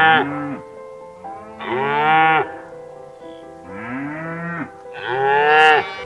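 Cows mooing: four long moos in a row, about a second each, the first already sounding at the start.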